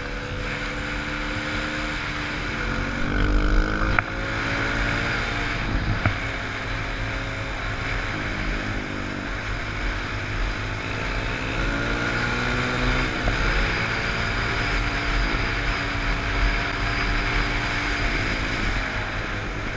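Dirt bike engine running under way, its pitch rising and falling as the throttle is worked, with wind noise on the microphone.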